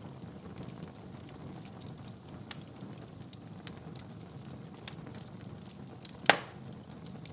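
Wood fire burning in a fireplace: a steady low rumble with scattered small crackles, and one loud sharp pop a little after six seconds in.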